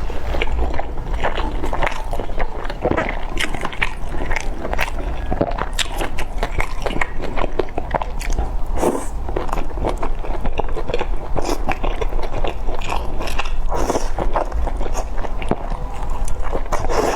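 Close-miked chewing and biting of big steamed dumplings: a continuous run of wet mouth clicks and smacks.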